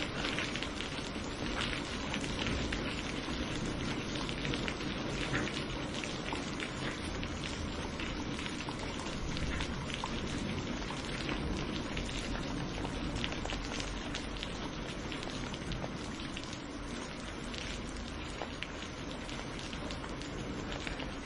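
Steady rain falling on a surface, an even hiss with many small drops spattering through it.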